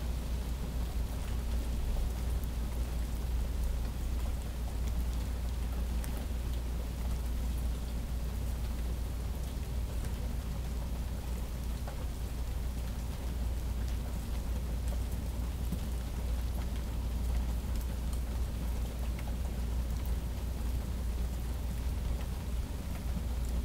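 Steady rain falling during a thunderstorm, with scattered drops ticking, over a constant low rumble.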